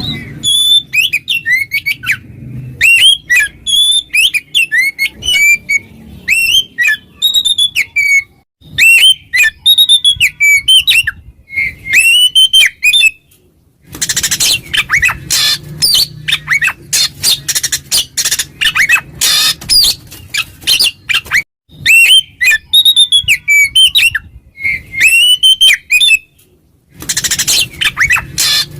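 Oriental magpie-robin (kacer) singing its loud open 'ngeplong' song: clear whistled phrases that slide up and down, broken by stretches of fast, scratchy chatter. It is a challenge song that calls out rival males.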